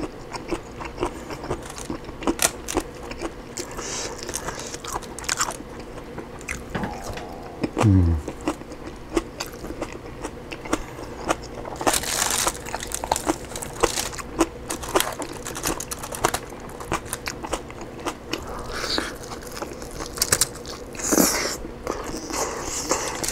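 Close-miked eating sounds of a person chewing and biting oven-baked rotisserie chicken, with many short wet clicks and smacks. About halfway through there is a louder rustling, tearing burst as the chicken is pulled apart by hand on its foil, and near 8 s there is a short 'mm' that falls in pitch.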